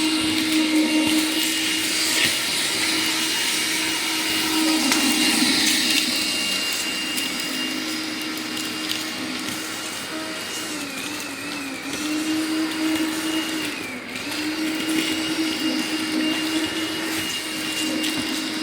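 Makita cordless vacuum motor running steadily with a high whine, its pitch dipping briefly twice near the middle.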